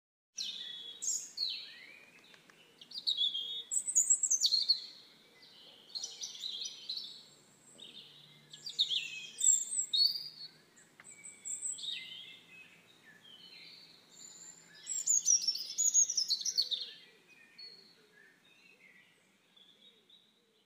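Birds chirping and singing in short phrases of quick, high twittering, with brief pauses between them.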